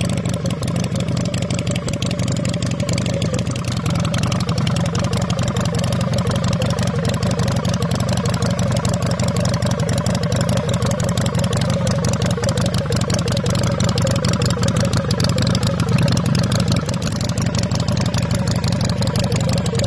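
Motorcycle engine idling steadily, with an even, rapid pulsing.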